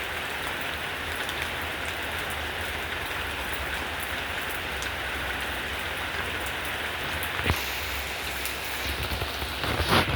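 Steady downpour of rain drumming on a surface, an even hiss with a low rumble underneath. A sharp knock comes about three quarters of the way through, and a louder burst near the end.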